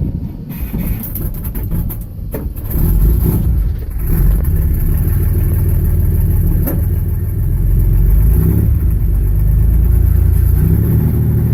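Old vehicle engine being turned over for a cold start. A dense low engine sound steps up in loudness about three seconds in and then holds steady.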